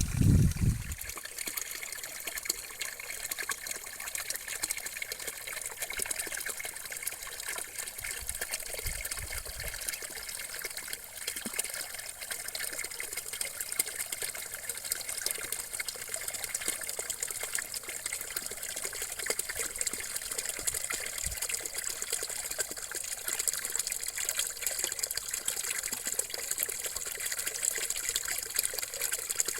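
Water trickling steadily, a continuous bubbling hiss, with a brief low rumble at the very start and a fainter one about nine seconds in.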